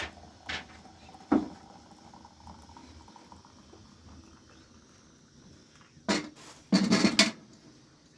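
A few sharp knocks, then a short burst of clattering about six seconds in, like hard objects being handled and set down.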